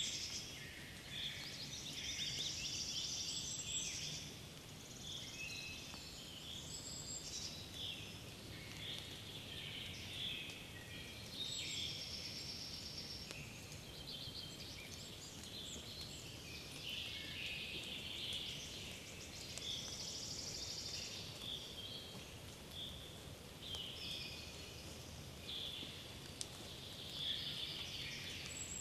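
Several songbirds singing in a spring forest, their short high trills and phrases overlapping one after another without pause.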